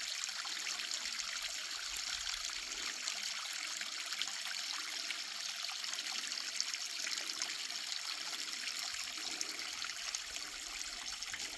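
A small waterfall trickling and splashing over rock: a steady, even rush of water.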